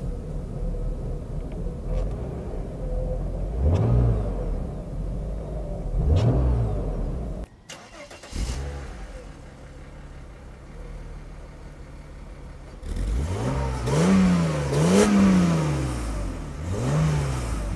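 Mercedes C36 AMG's 3.6-litre straight-six idling and revved in short throttle blips, each rising and falling back. Two blips are heard from inside the cabin, then four or five louder ones from outside at the rear, by the twin tailpipes.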